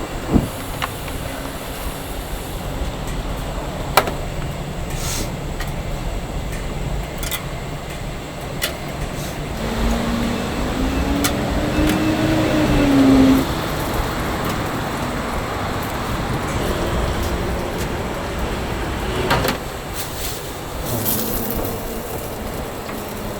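Steady street-side background noise with scattered sharp clicks and knocks, the loudest about half a second and four seconds in, and a brief rising-and-falling hum about halfway through.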